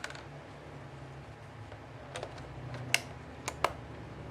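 A few sharp, separate clicks from a Canon EOS 6D DSLR being switched on and operated, a handful spread over the seconds, two of them close together near the end. The camera has a shutter fault that throws Err 20.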